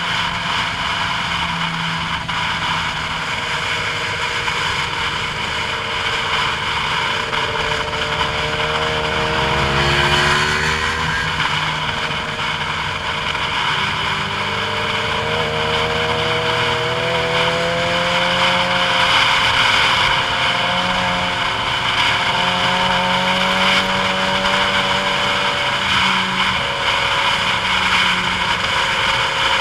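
Vehicle engine running over steady road and wind noise on a downhill run, its pitch sliding down and back up about ten seconds in, and rising again a few seconds later as speed changes.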